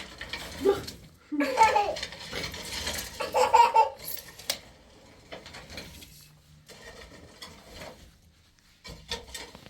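People laughing in bursts for about the first four seconds, then a quieter stretch with a few small knocks.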